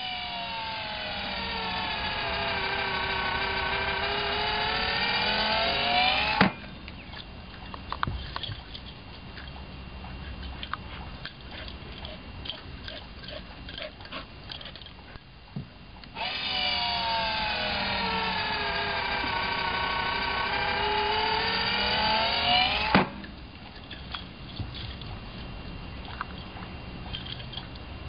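GoDogGo automatic ball launcher's electric motor running for about six seconds, its whine sagging in pitch and then climbing as it winds up, ending in a sharp snap as it throws the ball. This happens twice, about sixteen seconds apart, with faint scattered ticks in between.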